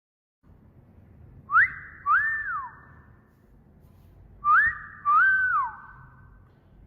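A wolf whistle, sounded twice about three seconds apart: each time a quick rising note, then a second note that rises, holds and falls away, with a short ringing tail after each.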